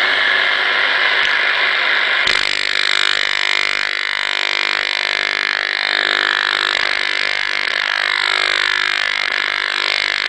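Strange electronic noise, typical of a radio receiver picking up interference: a steady hiss with warbling tones sweeping up and down through it, the texture changing abruptly about two seconds in.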